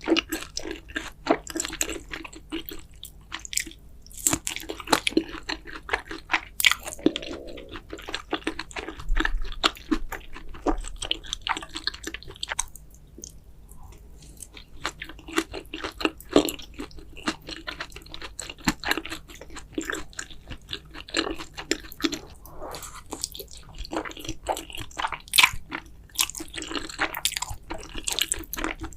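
Close-miked ASMR eating of carbonara fire noodles: big bites and chewing with wet, smacking mouth clicks, with a brief lull about halfway through.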